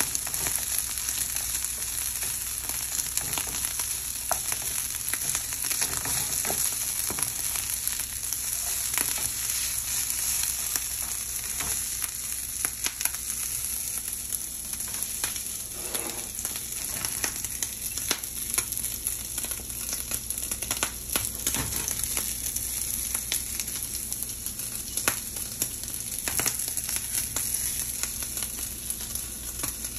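Fried rice with shrimp sizzling steadily in a nonstick frying pan, with scattered clicks and scrapes from a slotted spatula stirring and scooping it.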